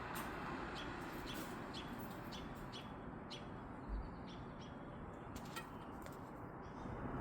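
Small birds chirping in short, repeated high notes over a steady background hiss, with one brief low thump about four seconds in.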